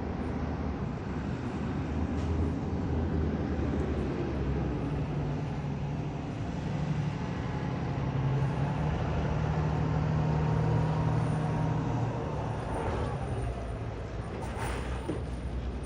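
Engine of a heavy vehicle running, its note rising for a few seconds midway and then settling back, with a short hiss near the end.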